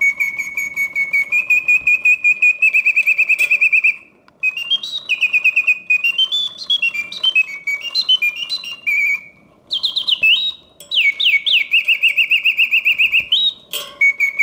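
Mechanical birdsong from a 1971 Reuge double singing bird cage: its bellows-driven whistle plays fast trills and warbles with rising chirps, a very strong singer on continuous play. The song breaks off briefly about four and nine and a half seconds in.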